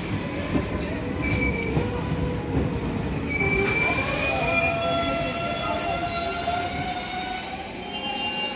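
Indian Railways passenger coaches rolling slowly past, wheels rumbling on the rails with drawn-out high squeals from the wheels on the track; a lower, longer squeal joins in the second half.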